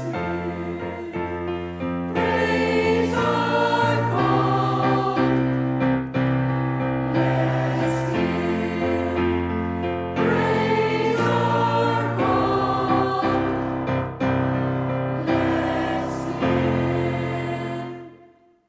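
Choir singing a song with piano or keyboard accompaniment, ending and dying away quickly near the end.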